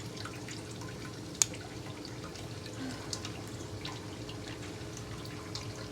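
A spoon scraping and tapping honey off into a bowl, giving small faint clinks over a low steady hum, with one sharper clink about a second and a half in.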